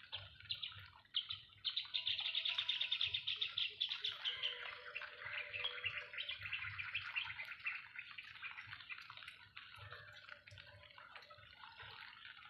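Birds chirping and singing, with a fast, dense trill that is loudest from about two to four and a half seconds in.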